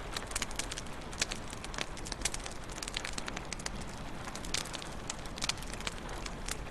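Wood fire in a fireplace crackling, with many irregular sharp pops and snaps, several a second, over a steady low hiss.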